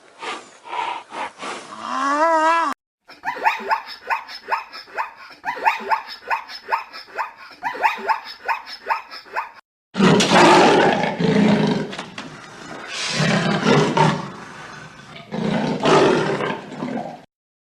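A short run of rapid repeated chattering calls, then a large wild animal roaring loudly three times, each roar deep and long.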